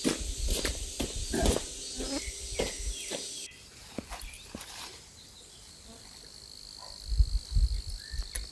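Rustling and handling clicks over a high insect hiss, which cuts off about three and a half seconds in. After that it is quieter, with a thin steady insect whine and a few low thumps near the end.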